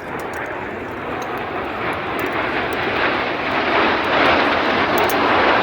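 Canadian Forces Snowbirds' CT-114 Tutor jet aircraft flying past overhead, their engine noise swelling steadily louder as they approach.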